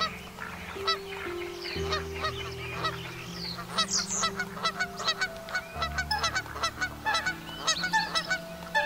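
Greylag goose calling in a series of short honks that come several a second in the second half. Soft background music with long held low notes plays under it.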